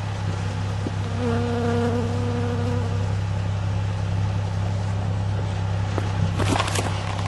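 Nissan 350Z's 3.5-litre V6 idling steadily through a custom single-exit exhaust with a Greddy Evo2 muffler, a constant low drone. A thin higher tone sits over it for a second or two, and a few brief sharp sounds come near the end.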